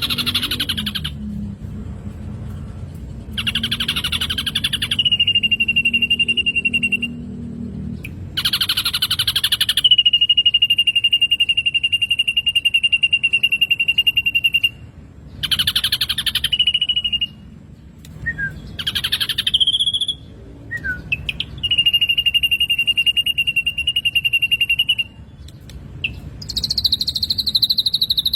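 Black drongo song: bursts of rapid buzzy chattering, several of them running straight into a long, steady high whistle held for a few seconds, repeated about half a dozen times over a low background hum.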